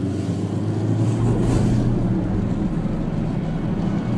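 Car engine running steadily under power, with road and wind noise.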